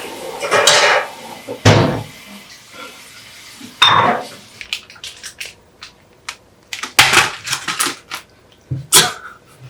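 Dishes and utensils clattering in a kitchen: a run of separate clinks and knocks of tableware being handled. Louder ones fall about two, four, seven and nine seconds in.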